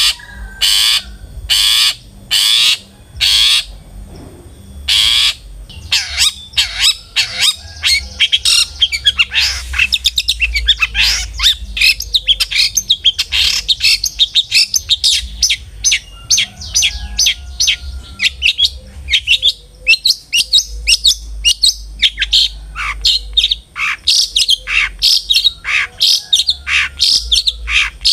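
Long-tailed shrike (cendet) calling: first a run of loud, evenly spaced harsh calls about two a second, then from about six seconds in a fast, dense chatter of short chirps and twitters.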